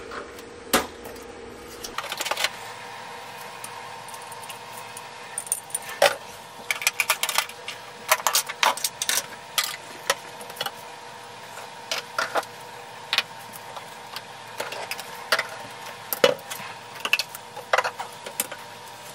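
Small toiletry bottles, jars and containers clicking, clinking and knocking as they are picked up, sorted and set down, in quick clusters of clatter through the middle. A steady hum runs underneath.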